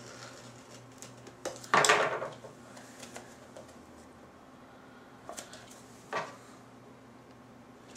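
Knife cutting open the plastic shrink-wrap on a boxed software package: one loud scrape about two seconds in, then a few fainter scrapes and taps of plastic and cardboard being handled.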